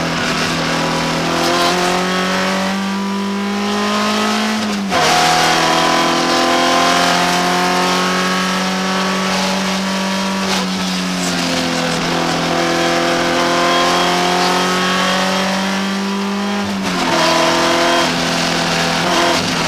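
BMW 318 iS four-cylinder engine pulling hard in the cabin of the rally car, its pitch climbing steadily through the gears. It drops sharply at an upshift about five seconds in and again near the end, then climbs once more.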